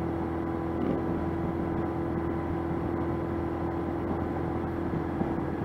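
1985 Honda CB700SC Nighthawk's inline-four engine running at a steady cruise, one even engine note under steady wind and road noise.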